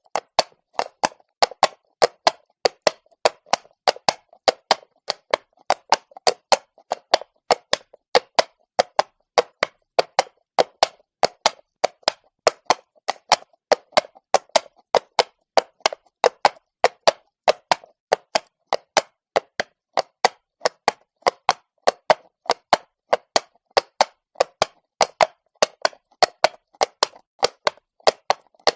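Horse hooves on stone at a walk: crisp, sharp clip-clops at a steady pace of about three a second, with nothing heard between them.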